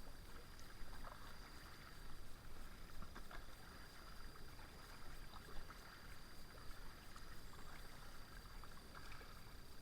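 Faint splashes and drips of a kayak paddle dipping into calm river water, irregular and light, over a steady low rumble.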